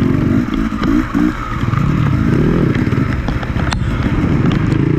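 Enduro motorcycle engine revving up and down under throttle, with its pitch rising and falling several times and a brief dip about a second in, plus scattered clattering knocks.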